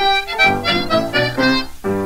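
Background music: an accordion playing a quick, bouncy tune, the instrumental opening of a French-Canadian folk song.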